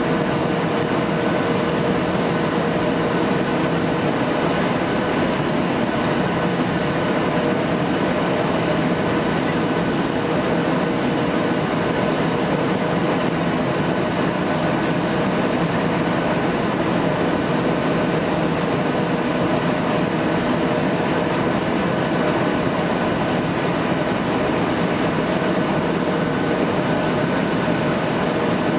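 Steady cabin noise inside a Boeing 757-200 airliner: a broad rush of airflow and air conditioning with the twin turbofan engines' steady whine, unchanging throughout.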